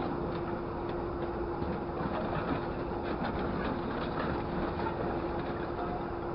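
Steady mechanical running noise of a vehicle, with a constant hum and faint scattered clicks and rattles.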